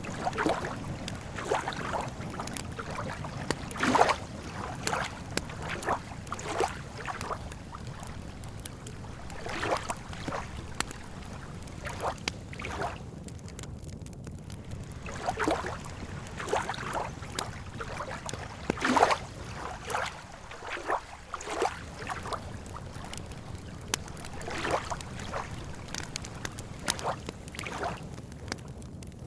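Lake water lapping at the shore in irregular small splashes over a steady low wind rumble, with a campfire crackling and popping now and then.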